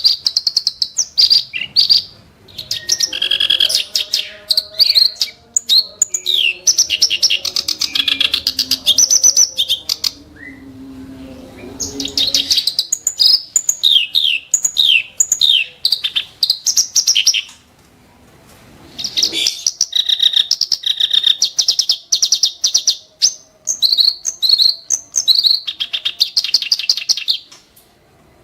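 Black-browed reed warbler singing in fast, sharp, harsh bursts of rapid repeated notes, in long bouts broken by brief pauses.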